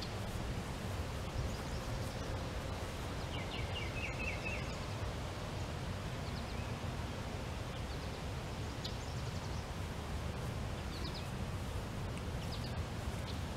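Outdoor background: a steady low rumble with several short bird chirps, a brief trilled call about four seconds in and scattered high chirps later on.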